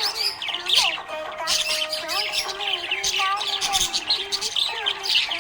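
Budgerigars chirping and twittering rapidly and continuously over background music with a held melody line.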